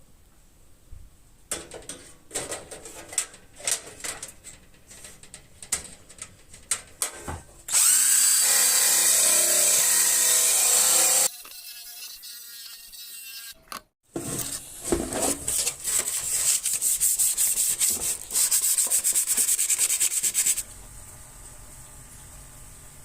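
Handheld power tool running in two loud steady runs on a sheet-metal workpiece. Clicks and knocks from handling the work come before them, and the later run has a fast, even ticking in it.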